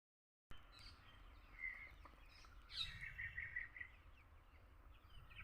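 Birds chirping and calling faintly, with a quick run of repeated notes about three seconds in, over a low steady outdoor rumble; the sound cuts in after half a second of silence.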